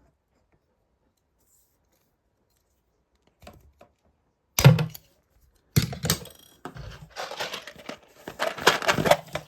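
A single sharp snap, most likely the water supply line being cut with a pipe cutter, about halfway through. It is followed by several seconds of quick metallic clinking and rattling as small metal pipe clamps are handled.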